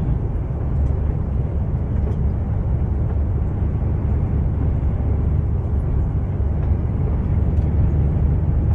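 Steady drone of a long-haul truck's diesel engine and tyre noise while driving, heard from inside the cab.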